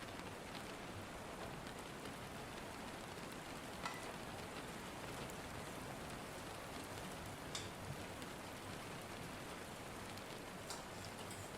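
Steady rain falling, a soft even hiss with a few sharp drips or ticks now and then.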